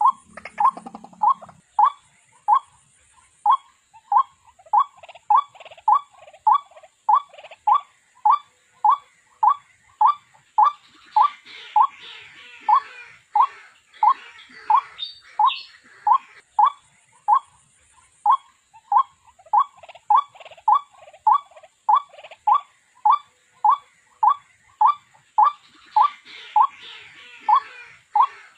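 White-breasted waterhen calling, a short note repeated monotonously about three times every two seconds. A fainter scratchy chatter comes in behind it at times.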